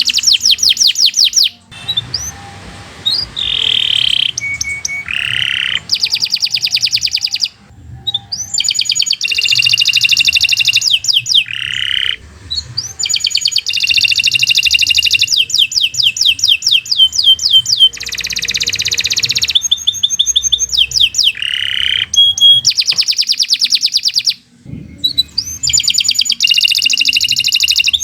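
Domestic canary singing a long, fast song: rapid trills of quickly repeated notes, changing phrase every second or two, with a few short pauses.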